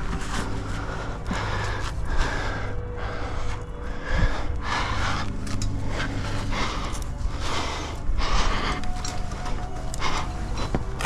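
A climber's heavy breathing from exertion, about one loud breath a second, while struggling up a rock chimney.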